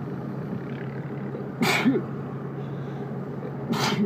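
A man sneezing twice, about two seconds apart, over the steady hum of the car he is driving; he takes the sneezes as a sign he might be getting a cold.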